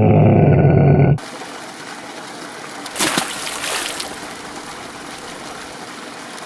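A camel's deep, drawn-out call that cuts off abruptly about a second in, followed by a steady sound of trickling water with a brief splash about three seconds in.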